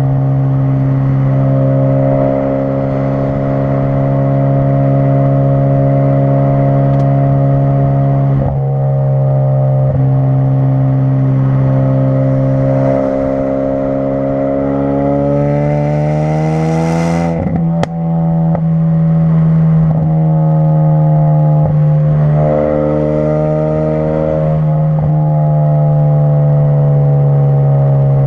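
2016 Ford Focus RS's turbocharged 2.3-litre four-cylinder running through a custom-fabricated exhaust while driving: a steady drone for most of the time, rising in pitch as it revs up about halfway through, a sharp crack at the top, then falling back to a steady drone.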